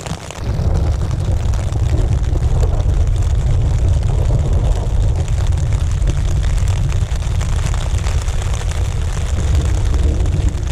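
Heavy, steady low rumble of a thunderstorm heard from inside a tent, starting about half a second in, with a fainter hiss of rain over it.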